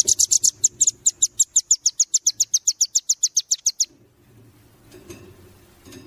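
Velvet-fronted nuthatch (rambatan paruh merah) giving a fast, even trill of short, high, sharply falling notes, about seven a second, that stops abruptly about four seconds in.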